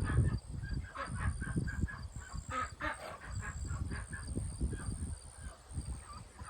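Domestic ducks calling in quick, short, repeated quacks, several birds overlapping, over low thumps and rumble.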